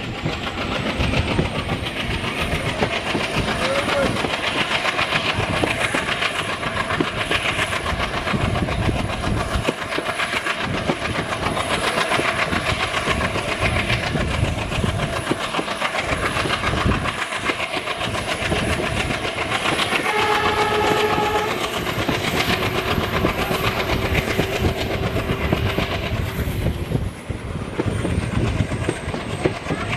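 Passenger train running at speed, heard from a coach doorway: steady rumble and wheel clatter over the rails, with the chugging of the ALCO WDM-3A diesel locomotive hauling it. About two-thirds of the way through, a short locomotive horn blast of about a second and a half.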